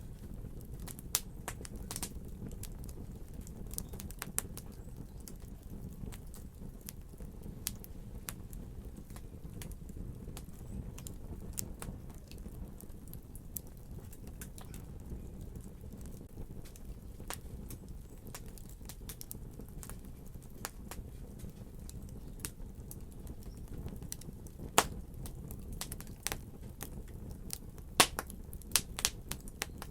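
Wood fire crackling: a steady low rumble of burning with scattered sharp pops and snaps, which come thicker and louder near the end.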